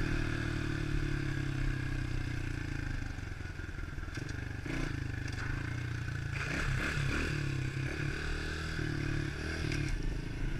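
110cc pit bike's single-cylinder four-stroke engine running at fairly steady low revs, with a few knocks and scraping sounds about halfway through.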